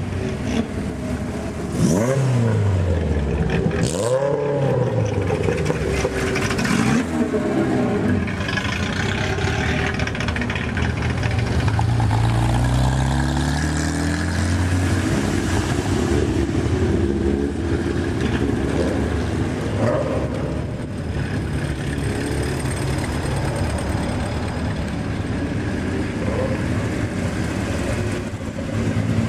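Engines of historic cars running on a race circuit. Two cars go past quickly with a falling pitch early on, then one engine revs up steadily for several seconds as it accelerates, over a continuous mix of engine noise.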